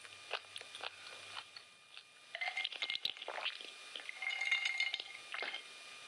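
Eating sounds from a dish of chicken biryani close to the microphone: scattered small clicks and clinks of dishware, with two brief ringing tones a couple of seconds in and again around four to five seconds in.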